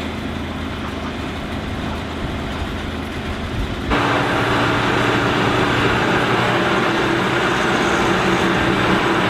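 A large engine running steadily, with a sudden step about four seconds in to a louder, brighter running sound with a higher steady tone.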